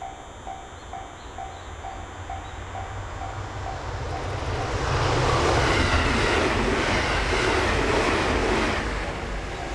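Train passing a level crossing. The crossing bell dings about twice a second, then the train comes up and goes by, loudest from about five to nine seconds in, its wheels clacking over the rail joints, and it fades near the end as the bell is heard again.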